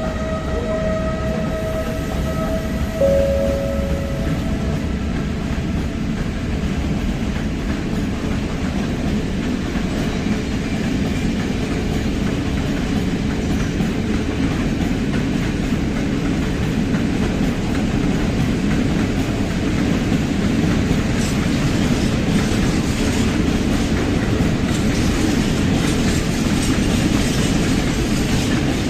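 Train running past on the line: a steady low rumble with wheels clattering over rail joints, the clatter growing denser and louder in the last third. A train horn sounds in the first few seconds, with a short blast about three seconds in.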